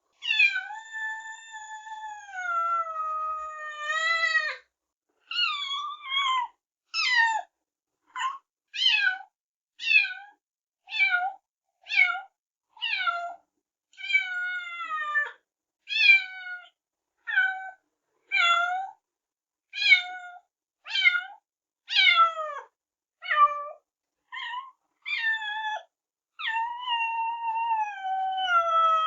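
Kittens meowing: a long, drawn-out meow at the start, then a run of short, high meows about once a second, each falling in pitch, and another long meow near the end.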